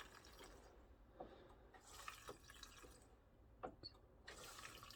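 Faint dripping of diesel from the disconnected fuel return line into a cut-open plastic bottle as the hand priming pump is pressed, with a few soft ticks about a second apart.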